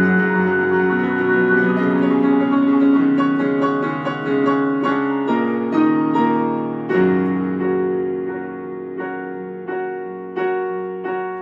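Piano playing an instrumental passage: held chords that change twice, then chords struck in a steady pulse about twice a second, slowly getting quieter.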